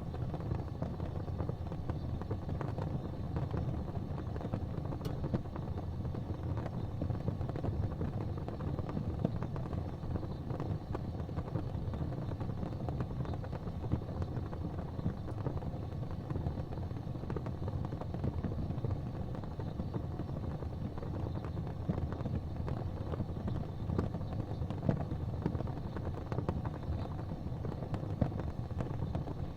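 Modern gas fireplace burning: a steady, low rumble of flame with faint scattered crackles.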